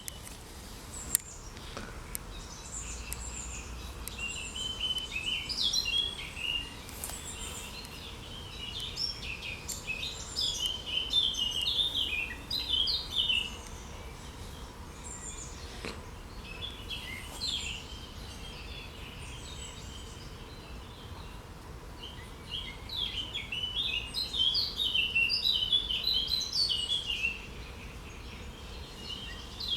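Songbirds singing: quick, twittering runs of high chirps, coming in two busy spells with quieter stretches between. A single sharp click sounds about a second in.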